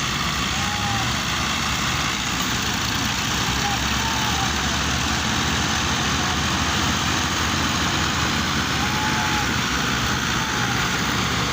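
Heavy tractor diesel engines running steadily under load, a dense continuous drone with no breaks. A few faint short calls sound over the top.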